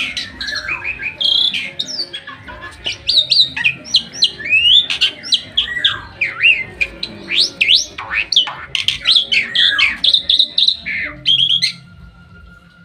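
Starling (jalak) singing: a rapid, varied run of loud sweeping whistles and harsh chirps that stops about a second before the end.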